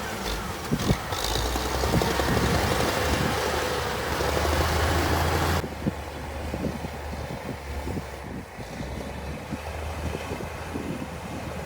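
Diesel engine of heavy earthmoving equipment running steadily, with scattered knocks and clanks. The upper hiss drops away suddenly about halfway through and the engine carries on more quietly.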